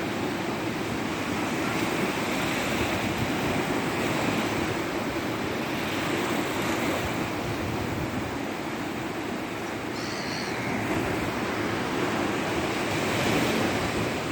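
Black Sea surf: waves washing onto the shore in a steady rush that swells and ebbs slowly.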